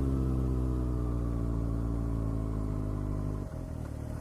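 Kawasaki ZX6R's inline-four engine running at low revs while the bike rolls on, its pitch easing slightly downward, with a short drop in the sound about three and a half seconds in.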